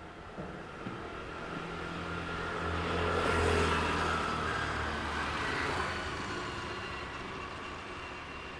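A motor vehicle driving past, its engine hum and tyre noise swelling to a peak about three and a half seconds in and then fading away.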